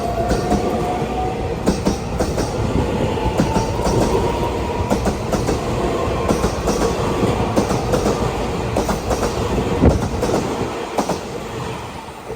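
Taiwan Railway train running on the track: a steady rumble with many sharp clicks of wheels over rail joints, and a thin whine rising in pitch over the first couple of seconds. The sound fades near the end.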